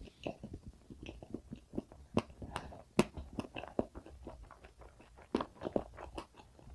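Close-miked chewing of a mouthful of soft castella sponge cake with whipped cream: many soft, wet mouth clicks and smacks, several a second.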